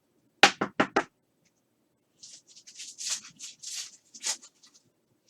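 Four quick knocks in a row, then about two and a half seconds of papery rustling and sliding as trading cards are handled and flipped through.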